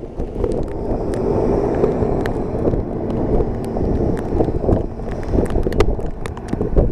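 Strong gusting blizzard wind buffeting the microphone, a loud rumbling rush that swells and eases, with scattered small ticks and pops.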